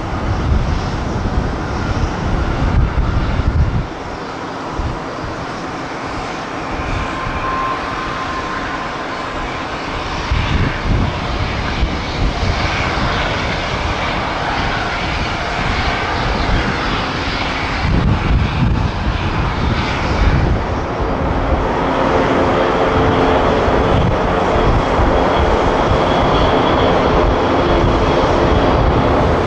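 Boeing 787-10 airliner's Rolls-Royce Trent 1000 turbofans coming in to land, the engine noise swelling as the aircraft nears, with a steady whine emerging over the last several seconds. Wind buffets the microphone in the first few seconds.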